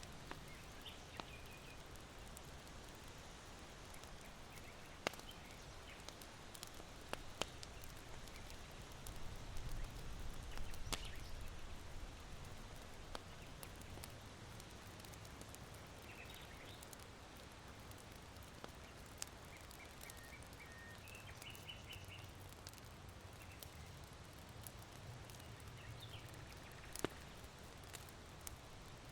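Charcoal embers in an irori hearth crackling with a few sparse, sharp pops, while small birds chirp faintly now and then. A soft wind hiss runs underneath, with a low gust swelling up near the middle.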